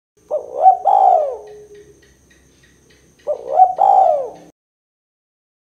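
Spotted dove (tekukur) cooing: two call phrases about three seconds apart, each a quick run of short rising-and-falling coos. This is the two-part 'kuk 2' call prized as a lure call.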